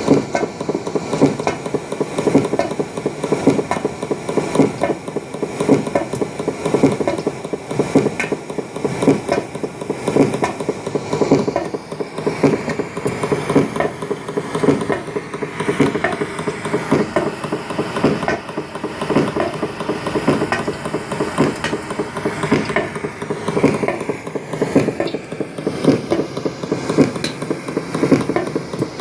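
Continuous rapid, irregular mechanical knocking and clattering picked up 18 m underground, which the recorder takes for tunnel-digging machinery at work.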